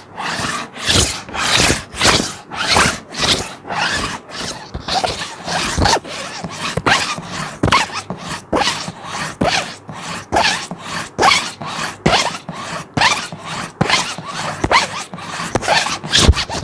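Plastic sheet being scratched in quick, repeated rasping strokes, about two to three a second.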